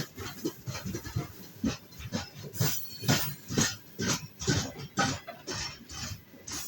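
Freight wagons rolling past, wheels knocking irregularly over rail joints, two to three knocks a second.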